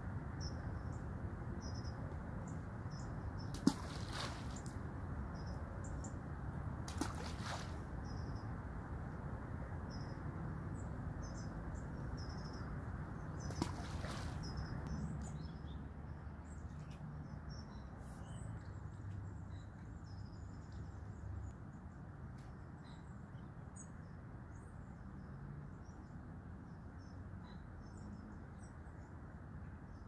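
Small birds chirping and twittering over a steady low outdoor rustle, with three brief louder sounds in the first quarter or so.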